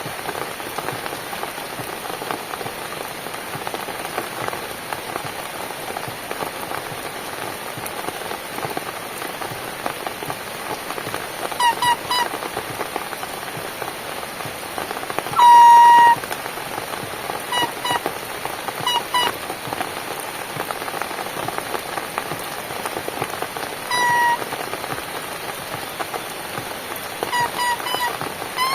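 Steady rain falling, an even hiss. Over it come several short pitched toots in the second half, some in quick pairs, the longest and loudest lasting about half a second.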